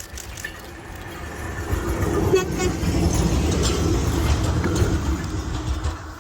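Pair of EP2K electric locomotives running coupled past at close range: a heavy rumble of wheels and running gear that builds over the first couple of seconds, with a quick run of wheel clicks over rail joints. A horn tone sounds faintly over the rumble.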